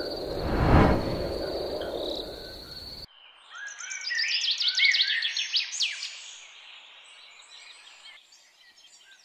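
Night ambience of steady, high insect chirring, with a loud swelling whoosh about a second in. About three seconds in it cuts to morning birdsong: many quick chirps that fade away toward the end.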